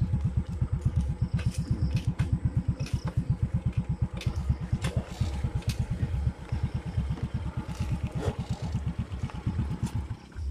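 Suzuki motorcycle engine running at low speed with a fast, even putter, a little quieter from about six seconds in, with a few light ticks over it.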